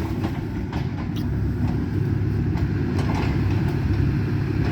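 Excavator's diesel engine running with a steady low rumble, with a few faint knocks.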